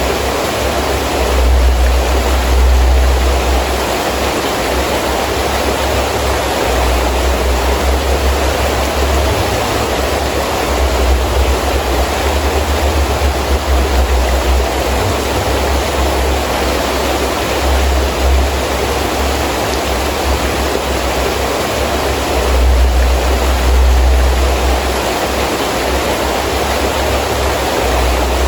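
Heavy rain falling steadily in a storm, with wind gusts. The gusts bring a deep rumble that swells and fades several times, most strongly near the start and again near the end.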